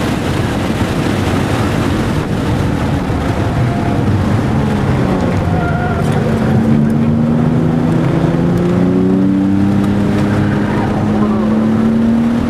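Porsche 996 Turbo's flat-six engine heard from inside the cabin at track speed, over road and wind noise. About halfway through, the engine note begins a long, steady rise in pitch as the car accelerates.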